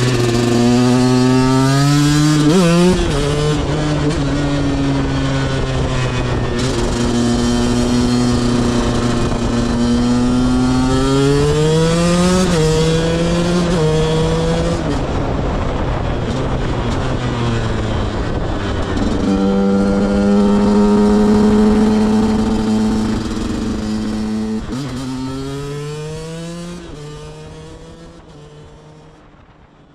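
KTM 125 EXC's two-stroke single-cylinder engine, running through a CRD header and stock silencer, revving up and down while being ridden, with shifts and throttle changes. The sound fades away over the last few seconds.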